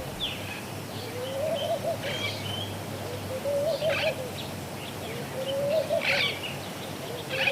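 Caged birds calling: a low warbling coo repeats about every two seconds, with short high chirps from other birds in between.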